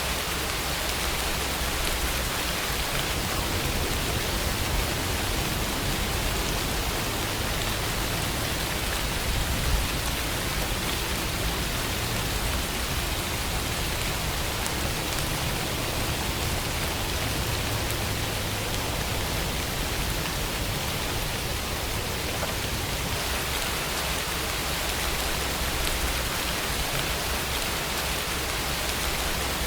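Steady rainfall: a continuous, even hiss of rain with no breaks or changes.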